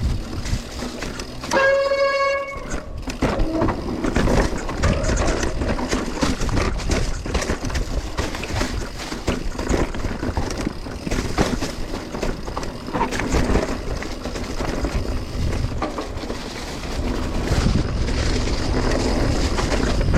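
Mountain bike rattling and clattering over a rough downhill trail, with tyres on dirt and rocks and frequent sharp knocks. About two seconds in comes one brief, high, steady squeal lasting about a second.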